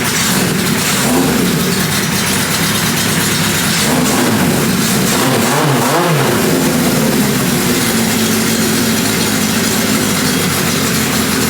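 1980 Kawasaki KZ1000 LTD's air-cooled inline-four engine running, its pitch rising and falling about midway as the engine speed changes.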